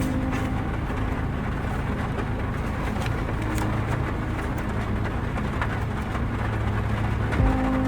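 A steady low rumble with hiss, like road traffic or a vehicle running.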